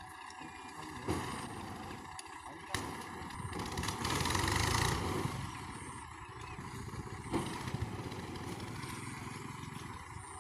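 A vehicle engine running steadily, with a few sharp clatters and a louder swell about four to five seconds in.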